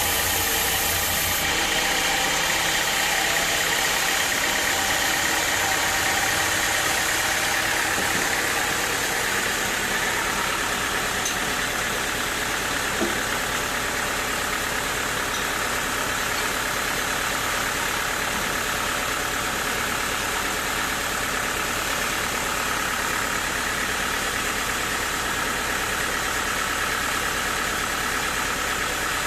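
Sawmill machinery running steadily, an even engine-like drone, with one short click about thirteen seconds in.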